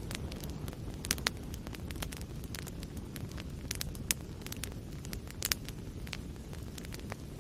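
Wood fire burning in a fireplace: a steady low roar of the flames with irregular sharp crackles and pops of the burning wood, a few louder snaps among them.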